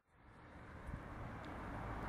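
Sound fades in from near silence over the first second to a steady low rumble: a train approaching in the distance along the line.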